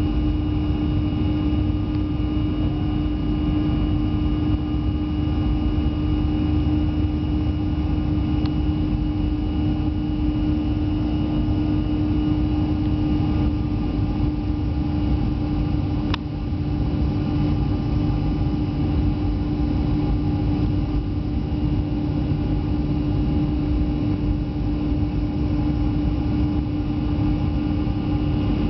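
Airliner cabin noise: a steady engine drone with a strong, even hum. There is one brief click about sixteen seconds in.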